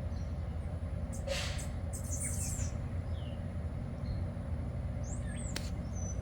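A few scattered bird chirps and short whistled calls over a steady low background rumble.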